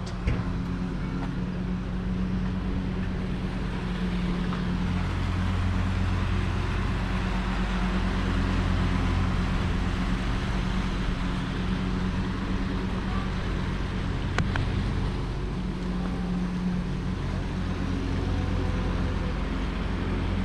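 A steady low engine or motor hum with an even rushing noise behind it, and a single sharp click about fourteen seconds in.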